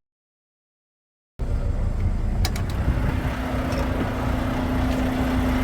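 Dead silence for just over a second, then a semi truck's diesel engine running steadily with a low hum and a couple of sharp clicks about two and a half seconds in.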